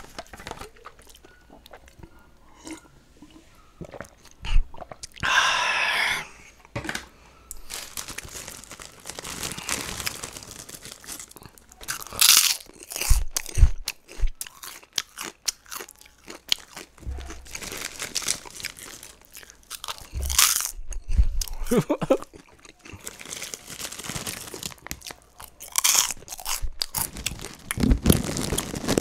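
Close-miked crunching and chewing of a crunchy snack: scattered mouth clicks at first, then steady crunching with a few loud bites, around twelve and twenty seconds in.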